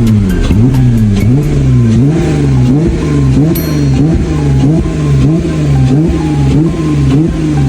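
Jeep Wrangler Rubicon's 3.6-litre V6 through a Borla axle-back exhaust, revved in quick repeated blips, about three every two seconds, the pitch rising and falling with each one.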